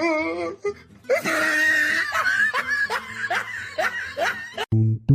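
A person laughing hard in a run of short rising bursts, about two a second. The sound cuts off abruptly near the end.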